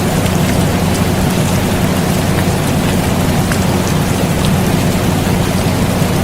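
Steady rain falling, with scattered drop ticks, mixed with the constant low hum of an air conditioner.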